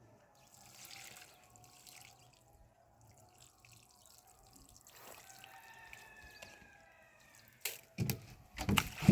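Water trickling and dripping, faint and steady, with a few loud knocks near the end.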